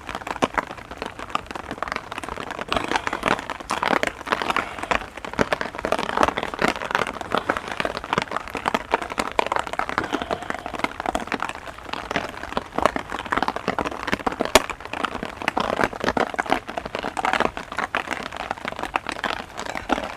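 Heavy rain falling close by, a dense, irregular patter of drops.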